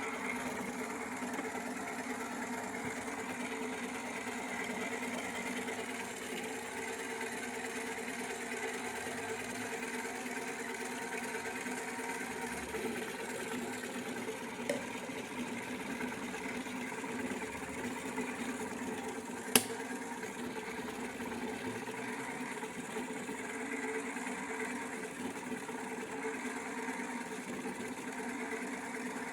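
Small electric motor of a toy washing machine running steadily with a hum. A faint click comes about 15 seconds in and a sharp click about 20 seconds in.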